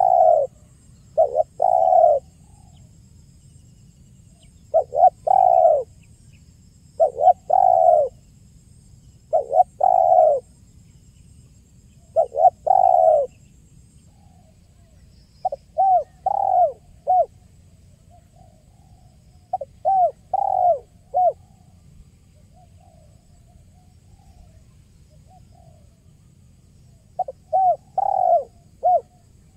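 Spotted dove (tekukur) cooing: phrases of several coos repeated every two to three seconds, with a longer break past the middle and another before the end.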